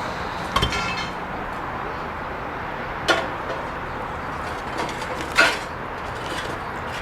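Three sharp knocks of hard objects striking each other over a steady background noise, the first ringing briefly like metal.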